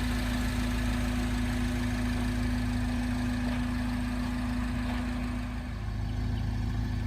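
Steady low mechanical hum, like an engine idling, with a steady drone that fades out about five and a half seconds in.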